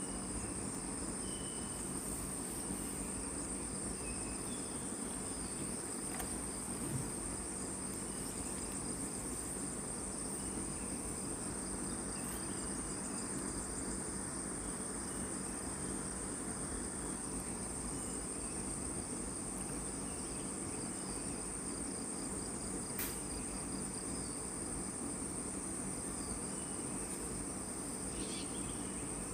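A steady, unbroken, high-pitched chorus of forest insects.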